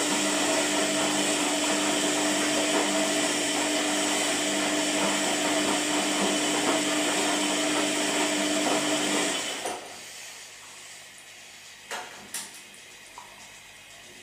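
Washing machine running with a steady motor hum and whine, which stops about ten seconds in, leaving a quieter background with a couple of light knocks near the end.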